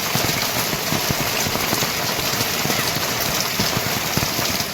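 Heavy rain falling, a dense steady patter of drops.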